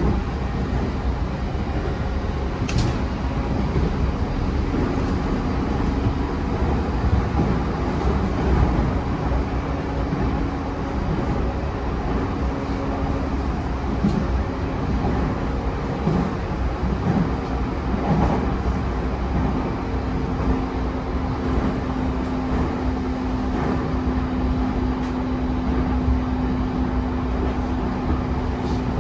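JR East E131 series electric train running along the track, heard from inside the car: a steady rumble of wheels on rail with a motor hum, and a sharp click about three seconds in.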